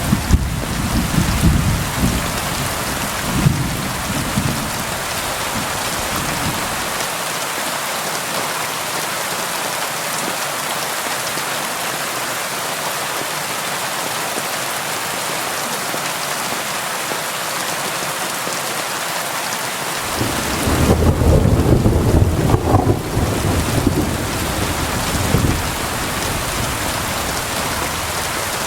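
Steady rain on window glass, with thunder rumbling low in the first few seconds and again about twenty seconds in.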